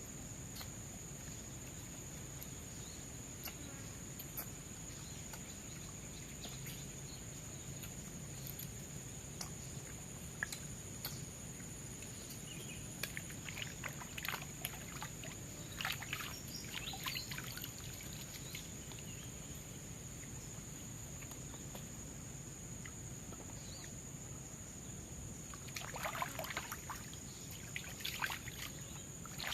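Forest ambience: a steady high-pitched insect drone over a low wash of background noise, with short bursts of water splashing and trickling about halfway through and again near the end.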